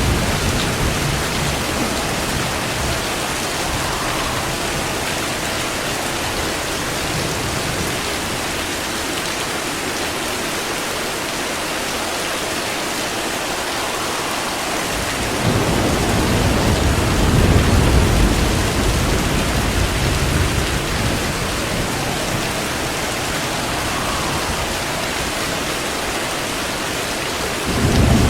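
Steady heavy rain with thunder: a long low rumble of thunder begins about halfway through and rolls on for several seconds, and another starts right at the end.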